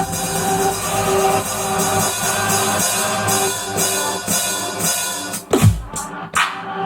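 Electronic music with a drum beat finger-drummed on Maschine MK3 pads. About five and a half seconds in, a sound falls steeply in pitch into a deep boom, the music breaks briefly around another hit, then resumes.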